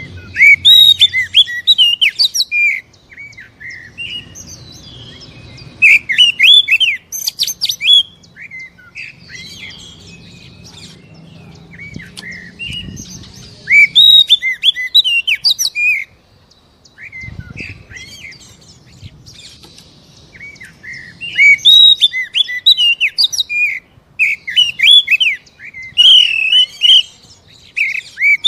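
Oriental magpie-robin (kacer) singing in about four loud bursts of rapid, varied whistles, chirps and harsh click-like notes, with pauses of a few seconds between them. This is a lure song played to stimulate captive magpie-robins into singing.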